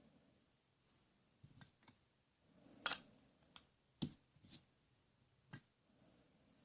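Plastic toy tools being handled: a scattered series of light clicks and knocks, loudest a little under halfway through.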